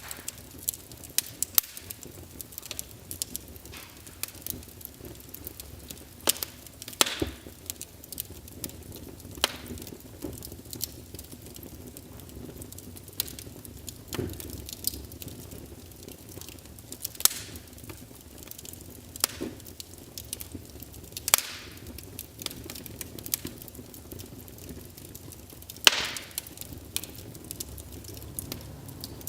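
Wood fire in a fireplace, logs burning and crackling with irregular sharp pops over a steady low rumble of flame. The loudest pop comes near the end.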